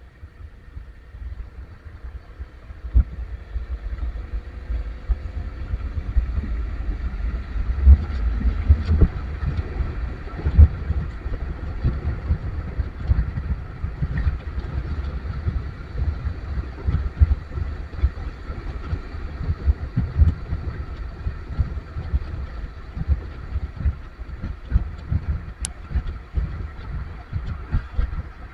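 Vehicle engine running with road noise, full of irregular low thumps and rumble, building up over the first few seconds.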